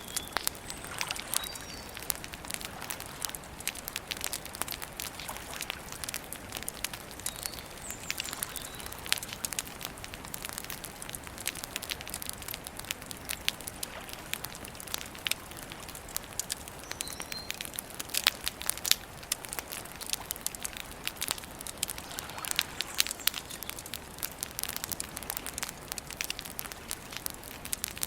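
Wood campfire crackling steadily with irregular sharp pops and snaps. A few faint high bird chirps come through now and then.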